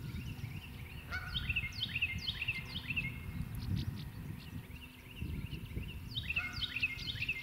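A songbird singing two bouts of rapid, repeated down-sliding chirps, one about a second in and another near the end, over a steady low rumble.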